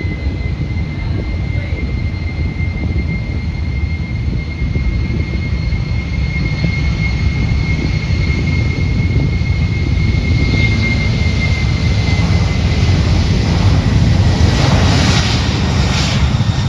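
Boeing 767 twin jet engines at takeoff power: a loud steady rumble with a thin high whine, growing louder toward the end as the whine fades.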